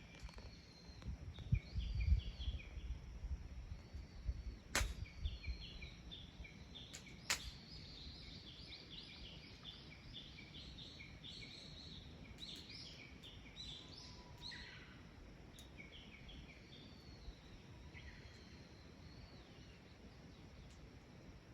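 Birds singing, with rapid runs of short repeated chirping notes. A few low thumps come near the start, and two sharp cracks come around five and seven seconds in.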